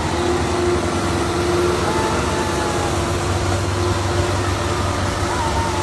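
Belarus tractor's diesel engine running steadily, a constant low drone with a steady hum.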